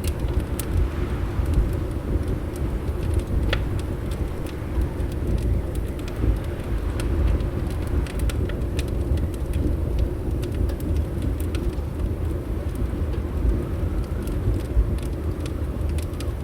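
Wood fire crackling with scattered sharp pops over a steady deep rumble of wind against windows.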